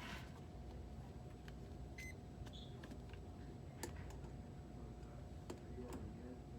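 Steady low mechanical hum with a faint steady tone, scattered light clicks, and one short electronic beep about two seconds in.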